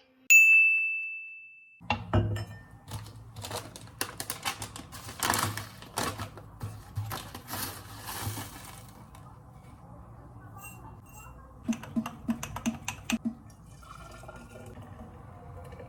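A single bright ding that rings out and fades over about a second and a half, then irregular clinks and clatter of kitchenware with some pouring liquid, with a quick run of clicks near the end.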